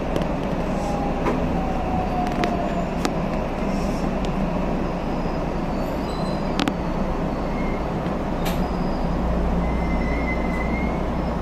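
A JR West 323 series electric train running, heard from inside the rear cab: a steady rumble with scattered sharp clicks and two faint, brief high squeaks in the second half.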